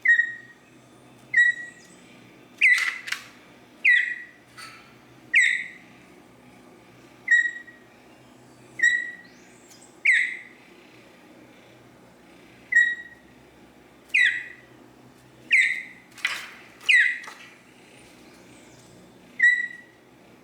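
A fledgling troupial giving short, loud chirps again and again, about every second or two, some dropping in pitch.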